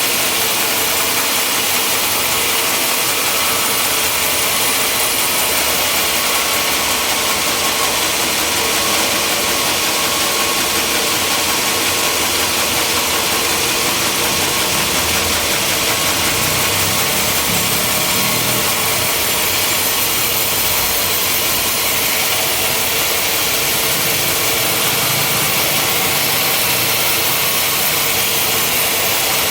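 Sawmill machinery running steadily: a constant, loud engine-and-saw noise with a strong hiss, with no single knocks or changes.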